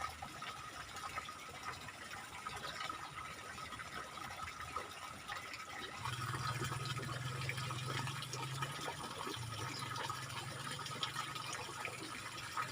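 Water running in a small ditch, a steady rushing noise. About six seconds in, a low steady hum joins it.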